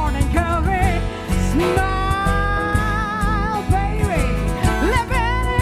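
Live semi-acoustic jazz-pop song: a singer holds a long note with vibrato, with quick sung runs around it, over guitar, bass and a steady beat.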